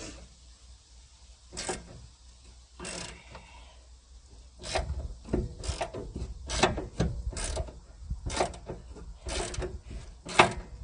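Ratchet wrench clicking in short bursts, roughly one to two a second, as a tight 7/16 door bolt is worked loose stroke by stroke.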